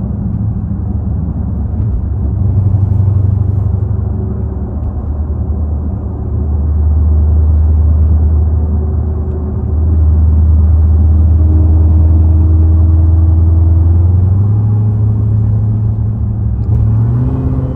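Dodge Hellcat's supercharged 6.2-litre V8 droning low and steady at highway cruise, heard inside the cabin. It grows louder through the middle and edges slightly higher in pitch near the end.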